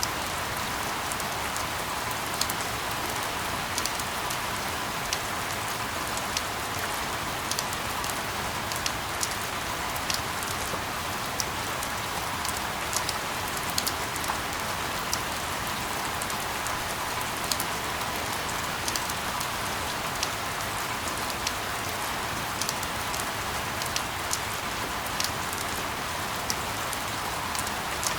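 Steady rain falling on a surface: an even hiss with scattered, irregular sharp drop hits.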